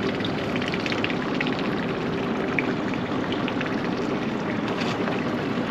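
Boat motor running steadily under a constant wash of water noise, with scattered faint ticks and splashes.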